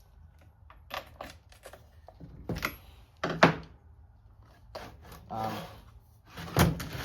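Handling noises from an old Homelite XL12 chainsaw as its fuel tank is opened and checked: a run of clicks, knocks and short scrapes, the loudest a sharp knock about three and a half seconds in.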